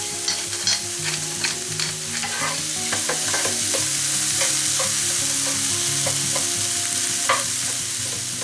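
Chopped peppers, courgettes and ham sizzling in oil in a frying pan while being stirred, with a steady hiss and scattered light clicks and scrapes of the utensil against the pan.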